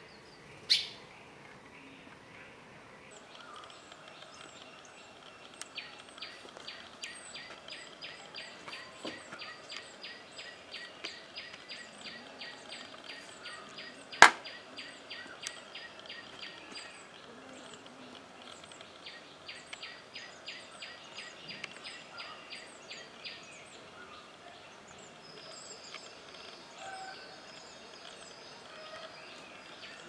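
A small bird chirping in a fast, even series of short high notes, about four a second, pausing briefly once and starting again near the end. A sharp click sounds about a second in, and a louder one about halfway through.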